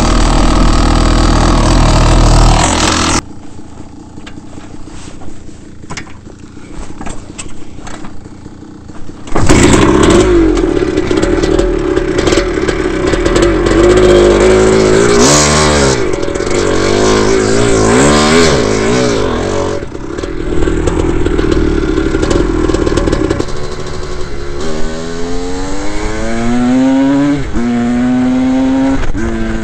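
Dirt bike engines running and revving in a string of short clips: a loud steady engine, then a few seconds of quieter sound with scattered clatter, then an engine revving up and down, and near the end repeated rising pitches as a bike accelerates through the gears.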